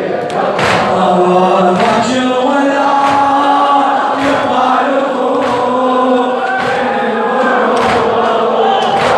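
A crowd of men chanting a Shia latmiyya lament together in held, sung lines, kept in time by rhythmic chest-beating thumps about every second and a bit.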